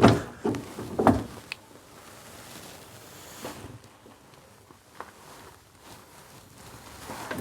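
Hand work on engine parts and tools: a few sharp metallic knocks and clicks in the first second and a half, then only faint, scattered clicks.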